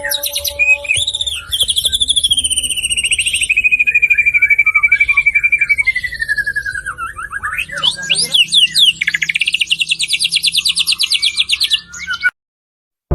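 White-rumped shama (murai batu) singing a long, varied run of rapid trills and chattering phrases; one trill slides slowly down in pitch over several seconds, and a fast trill follows later. The song cuts off suddenly near the end.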